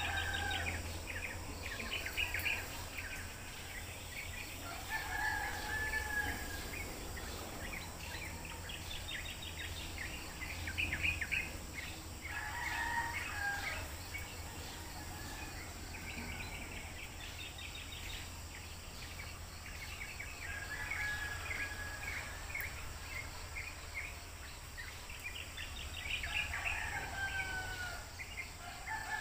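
Birds calling in short repeated phrases every few seconds, some of them crowing like a rooster.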